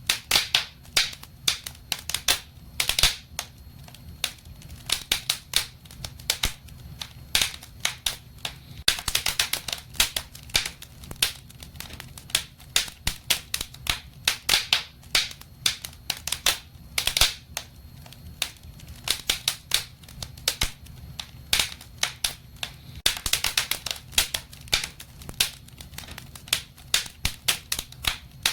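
Wood fire burning in a fireplace, crackling with many sharp irregular pops and snaps over a low steady rumble.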